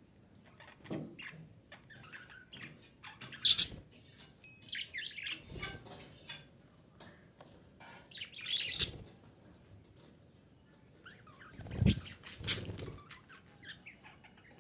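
Female budgerigar chattering in short, irregular bursts of sharp chirps and clicks. A few low thumps come in, about a third of the way in, near the middle and near the end.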